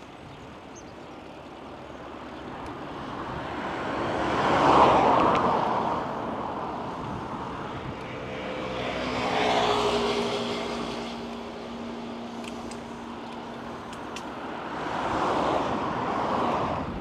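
Road vehicles passing one after another, three in turn, each rising and fading away. The first, about five seconds in, is the loudest; the second carries a steady engine hum.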